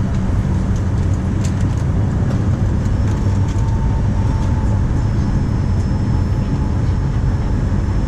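Steady cabin noise inside a Boeing 737-900 with its two CFM56-7B engines running: a constant low rumble and rush of air with faint high whines above it.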